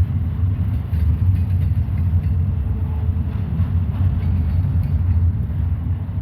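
Loaded and empty container stack cars of a freight train rolling past on the curve with a steady low rumble, with faint occasional squeal from the wheel flanges.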